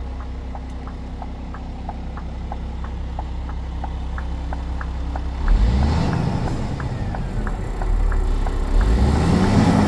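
A vehicle engine running steadily, with a fast, regular ticking of about two to three clicks a second. About halfway through it gets louder, with two swells that rise and fall in pitch, one just past the middle and one near the end.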